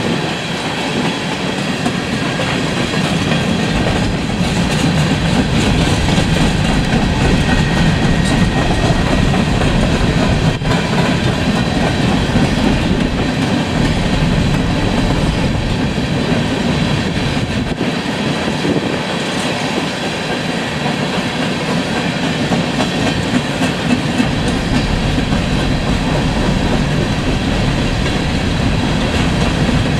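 Loaded coal train's cars rolling steadily past on the rails: a continuous heavy rumble of steel wheels on track with clickety-clack.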